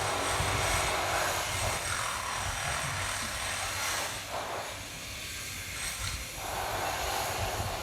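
Strong wind blowing outdoors: a steady hiss that swells and eases in gusts.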